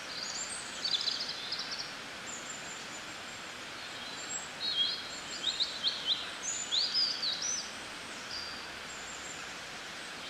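Small birds chirping and trilling in short high phrases over a steady background hiss, with bursts about a second in and a busier run in the second half.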